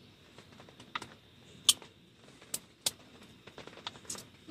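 Irregular light clicks and taps, about eight over four seconds, with no steady rhythm, like small hard objects being handled.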